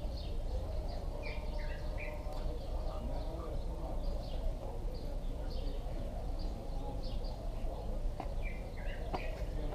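Small birds chirping over and over in short high notes, a couple per second, with a few lower falling calls, over steady low background noise.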